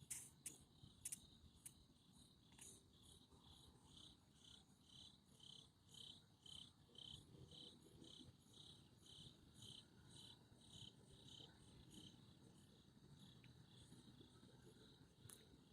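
Crickets chirping faintly in an even pulse of about two chirps a second, with a few sharp clicks in the first two seconds and one near the end.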